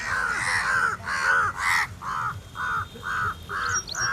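A bird giving a steady series of short, harsh calls, about two to three a second, with a faint higher chirp near the end.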